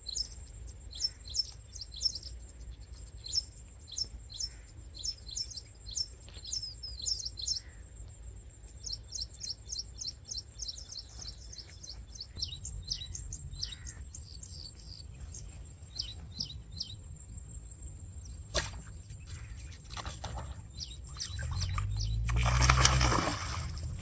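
Small birds chirping in quick runs of short high notes, over a thin steady high tone and a faint low rumble. Near the end a much louder, rough sound with a low pitch comes in.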